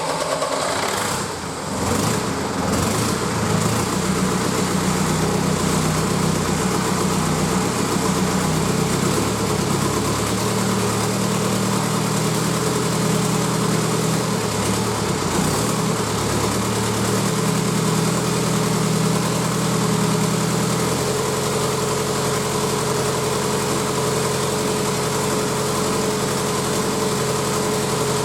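Renault 1.9 dCi (F9Q) four-cylinder turbo-diesel engine running just after being started. Its speed shifts a few times before it settles into a steady idle about 20 seconds in.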